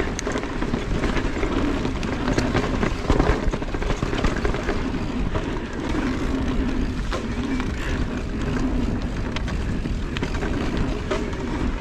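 Steady riding noise from an e-mountain bike: a low rumble with scattered clicks and rattles.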